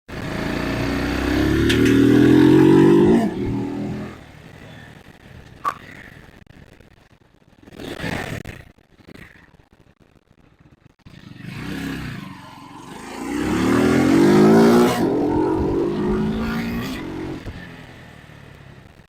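Vitacci GTT250's 229cc air-cooled single-cylinder four-stroke engine accelerating hard twice, its revs climbing each time, with a quieter stretch between the two runs.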